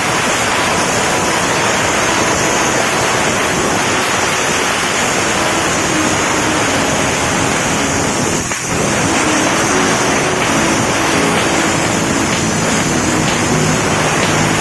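Steam-wash gun spraying a two-wheeler: a loud, steady hiss of a pressurised steam jet, dipping briefly about eight seconds in.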